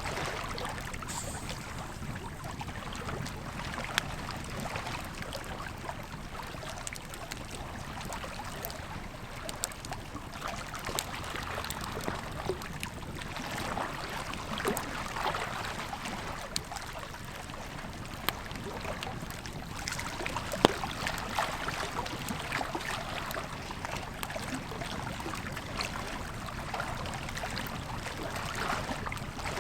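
Campfire crackling, with scattered sharp pops (the loudest about two-thirds of the way in), over the steady rush of a flowing river.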